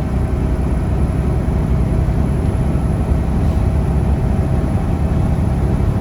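Semi truck cruising on the highway: a steady low drone of the diesel engine and road noise, heard from inside the cab.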